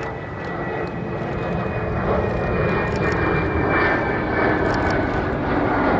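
Fighter jet engine running loud and steady: a dense rushing noise with a thin high whine that drifts slowly down in pitch.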